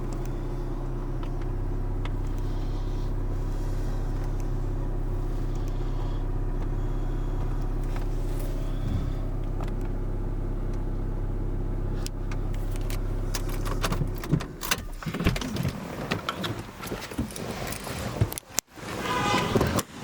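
Audi Q3's engine idling steadily. About fourteen seconds in the steady engine tone stops, and irregular knocks and rattles follow.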